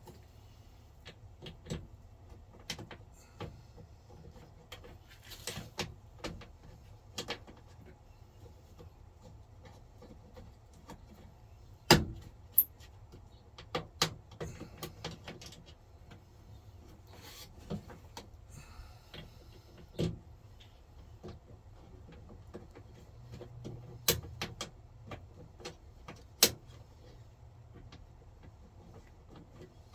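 Scattered clicks and knocks of hand work on a truck door's latch and handle parts, irregular and unhurried, with a handful of much sharper knocks.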